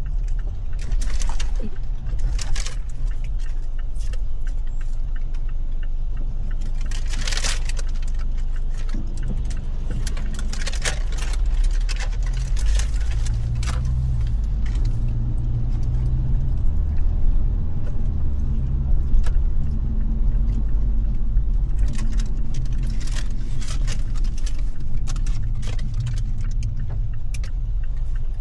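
Inside a car cabin: a steady low engine rumble, growing a little fuller about halfway through, with scattered sharp clicks and light rattles on top.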